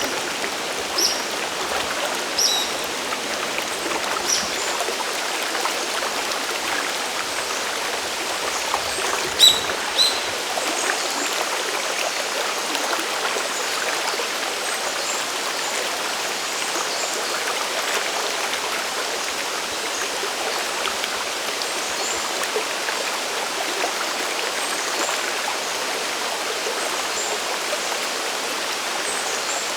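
Steady rushing water of a mountain stream at a waterfall, splashing over rocks, with a few sharper drips and splashes standing out in the first ten seconds, the loudest about halfway through the first third.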